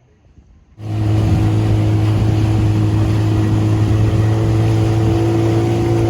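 Boat outboard motor running at a steady speed with a constant hum; it comes in abruptly about a second in at full level and holds steady.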